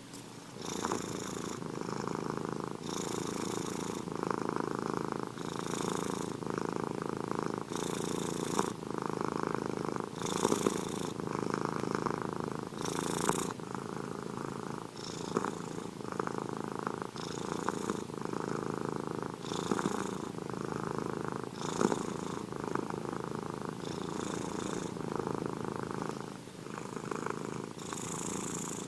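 Domestic cat purring steadily at close range, the purr swelling and easing with each breath about every two and a half seconds.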